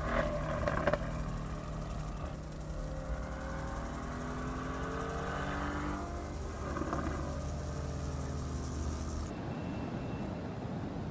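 Mercedes-AMG GT's twin-turbo V8 engine running as the car drives, its pitch rising and falling through the middle. A high rushing hiss over it stops suddenly about nine seconds in.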